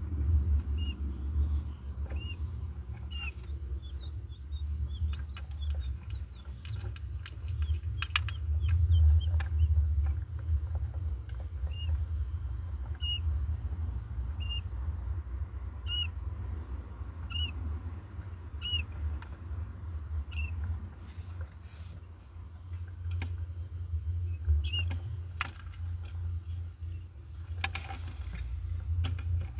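Baby quail chicks peeping: single short, high chirps repeated about every second and a half, over a steady low hum.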